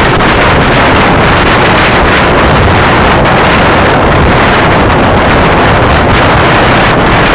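Heavy wind noise buffeting the microphone of a low-mounted action camera on a moving Kawasaki Ninja 250R, with the bike's engine running steadily underneath.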